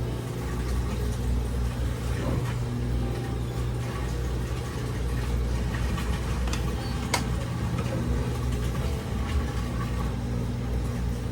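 A steady low hum, like a motor or electrical appliance running, with one faint click about seven seconds in.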